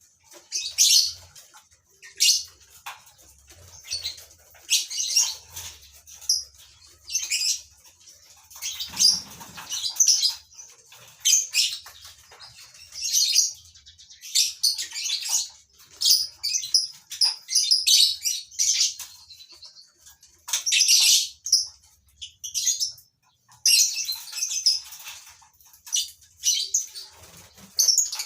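Colony of lovebirds calling: a steady run of shrill, chattering chirps and screeches, one call after another.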